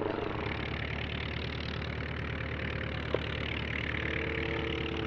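Druine D31 Turbulent's 30 hp Volkswagen engine running at a steady pitch, with no change in speed.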